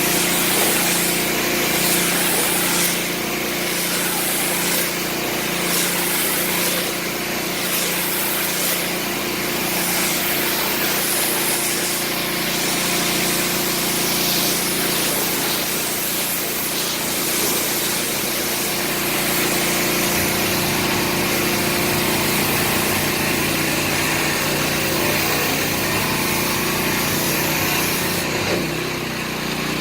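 An engine running steadily under a hiss, its pitch shifting about twenty seconds in and again near the end.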